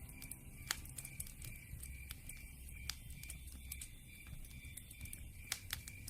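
Campfire crackling: sharp irregular pops and snaps, a few of them louder, over a low steady rumble.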